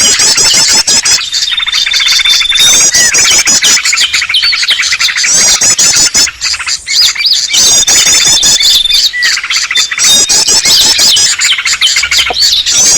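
Bird-lure recording: a dense, continuous mix of many small songbirds' chirps, trills and whistles, led by the noisy chatter of yellow-vented bulbuls (trucukan). A steady high whistled note comes in about a second in and again near nine seconds, as the same sequence repeats about every seven and a half seconds.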